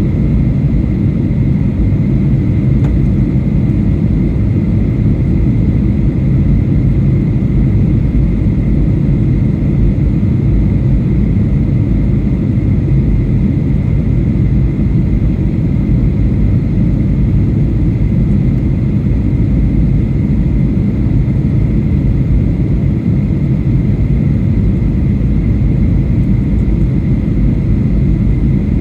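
Steady cabin roar of a Boeing 737-800 airliner in flight, heard from inside the cabin: a deep, even rumble of engines and airflow with a faint steady whine above it.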